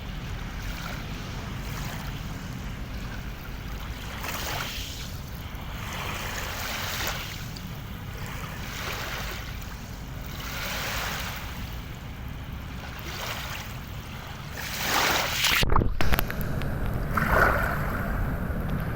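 Water waves washing in and out every two to three seconds over a steady low wind rumble on the microphone. Late on there is an abrupt jolt with a brief dropout, and after it the water sound is louder.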